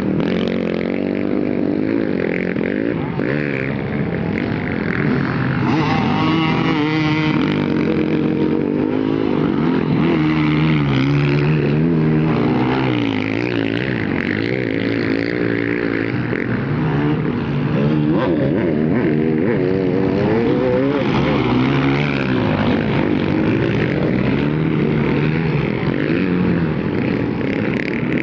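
Motocross dirt bike engines revving, their pitch rising and falling again and again as the throttle opens and closes, with more than one bike running at times.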